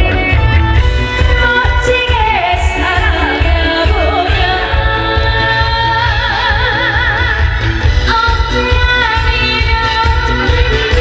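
Trot song performed live: a woman singing over a backing track with a steady bass beat. About six seconds in, she holds a note with wide vibrato.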